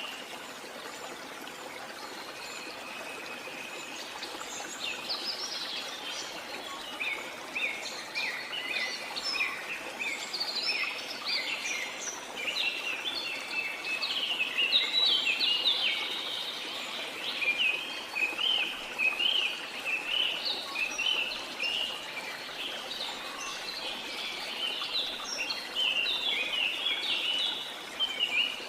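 Birds chirping in rapid, overlapping flurries over a steady rush of falling water.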